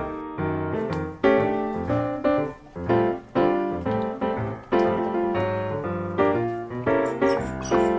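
Background piano music: a quick melody of struck notes over a lower accompaniment.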